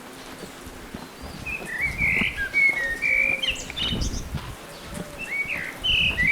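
Small birds chirping in short, quick calls, in two flurries: one from about one and a half seconds in, another near the end. A few low thumps sound underneath.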